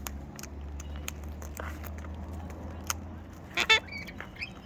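A steady low hum that stops a little past three seconds in, with scattered small clicks, then a short, loud bird call near the end followed by a few brief high chirps.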